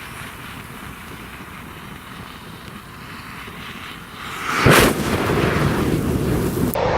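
Thousands of matches burning with a steady hiss, then a sudden loud whoosh about four and a half seconds in as a large mass of match heads flares up at once, the fire staying loud afterwards.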